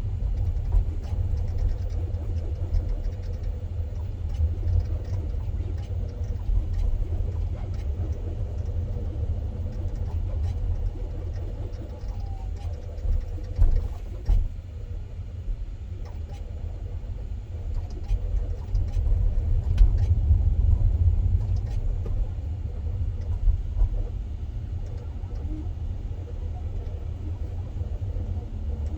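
Low, steady rumble of tyres and road heard inside the cabin of a moving electric car (Hyundai Ioniq 5), with no engine note, and a few short knocks and jolts near the middle.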